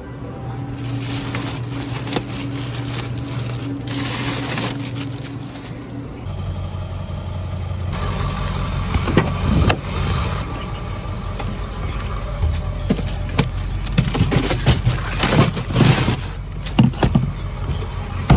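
Diesel pickup truck engine running steadily, then a heavier low rumble as it drives, with repeated knocks and rattles through the second half.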